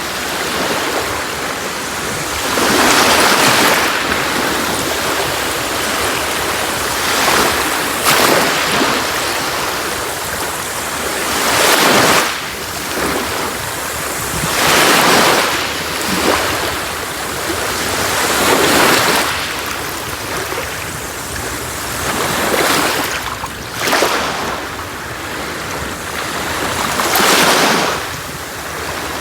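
Sea waves breaking and washing on a shore, a steady wash that swells into a fresh surge every two to four seconds.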